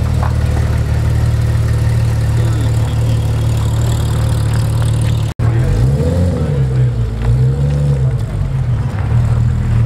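Porsche 911 GT3's flat-six engine running steadily as the car creeps at low speed. After a brief drop-out about halfway, it revs up and back down twice.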